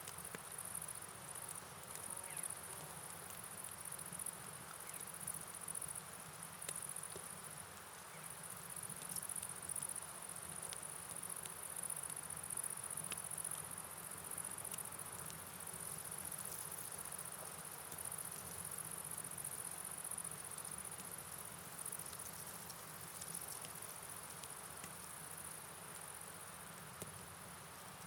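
Night rain and river ambience: an even hiss of rainfall and running water, with a steady high-pitched chirring over it and scattered small ticks of drops.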